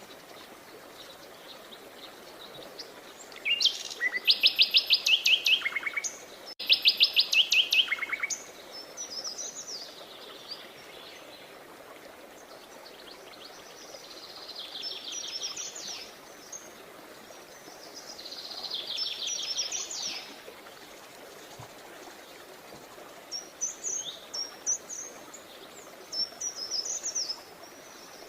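Songbirds singing. Two loud, fast trills of repeated notes come about four and seven seconds in, softer trills follow later, and short high chirps are scattered throughout, all over a steady background hiss.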